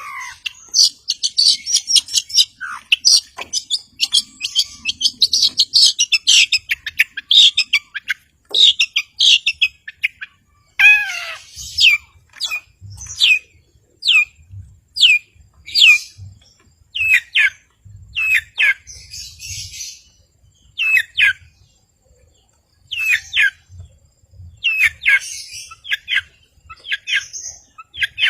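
Long-tailed shrike (cendet) singing: a fast, dense chatter of high notes for the first several seconds, then a run of short, loud calls that slide downward in pitch, about one a second.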